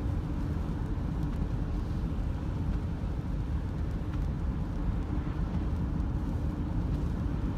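Steady road and engine rumble inside a moving Subaru Forester's cabin.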